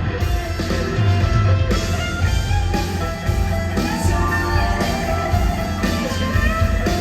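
Live rock band playing, with electric guitar prominent over bass and drums.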